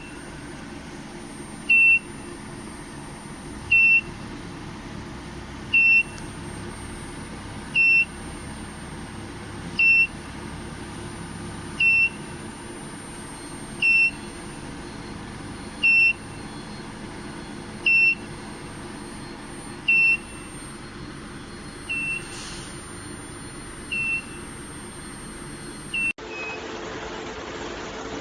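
A high single-tone electronic beeper sounding a short beep about every two seconds, over a steady background hum and a faint high-pitched whine. The beeps grow weaker near the end, and the background changes suddenly shortly before the end.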